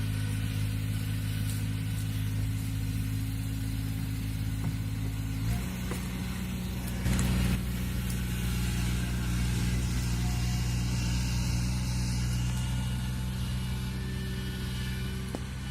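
Kubota DC-35 combine harvester's diesel engine running steadily. Its note shifts about five and a half seconds in, and there is a brief louder burst a couple of seconds later.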